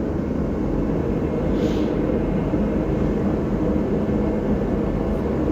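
Steady low mechanical drone with a faint hum, like a machine or motor running in the background.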